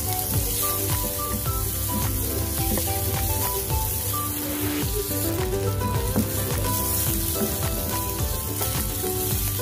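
Ginger, shallot and garlic sizzling in hot oil in a nonstick wok, with the clicks and scrapes of a wooden spatula stirring them, under background music with a light melody.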